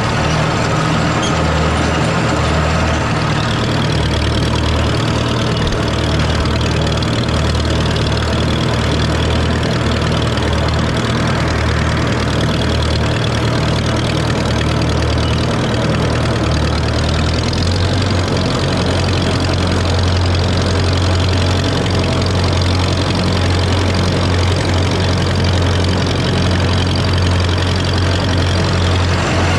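Farmall A tractor's four-cylinder engine running steadily at low throttle while pulling in second gear, with the PTO turning a King Kutter finish mower. The engine note shifts lower a little over halfway through.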